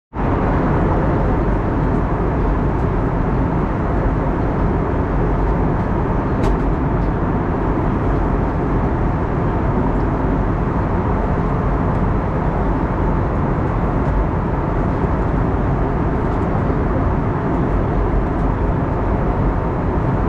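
A loud, steady rumbling noise with no pitch to it, like a vehicle running; it cuts in suddenly and does not change.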